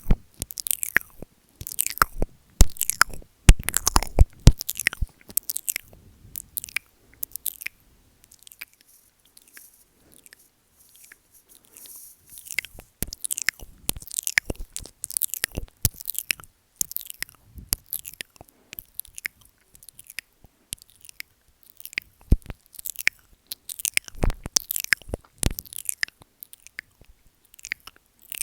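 Close-miked wet mouth sounds: licking and nibbling at the microphone, a rapid run of short smacks and clicks. They drop away for a few seconds before picking up again.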